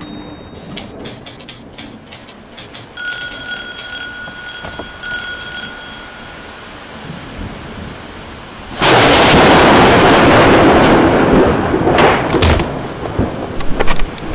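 Typewriter keys clacking, and a bell ringing in two bursts. A sudden loud crash of thunder with rain noise comes about nine seconds in and dies away over a few seconds, with more typewriter clacks near the end.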